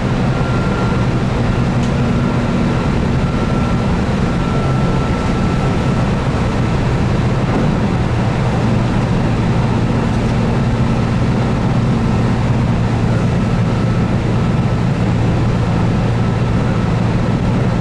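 Keihan 8000 series electric train running at speed: a steady, even rumble of wheels and running gear with a faint steady whine, from a train driven by DC traction motors under field-added excitation control.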